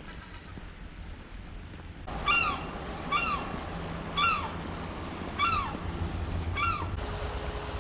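A bird calling five times, about a second apart, each call a short note that rises briefly then falls, over a low rumble. A steady hum comes in near the end.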